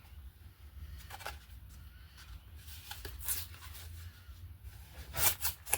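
Paper and craft supplies handled on a tabletop: a few soft, scattered rustles and clicks over a low steady hum, the loudest handful near the end.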